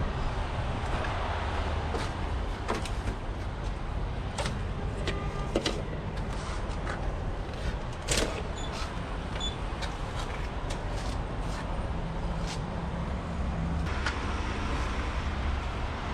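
Semi truck engine running with a steady low rumble heard inside the cab, with scattered clicks and knocks.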